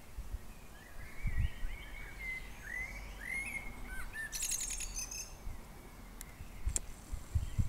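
Small birds chirping: a run of short curved chirps in the first half, then a brief fast rattle about halfway through, with a few low thumps.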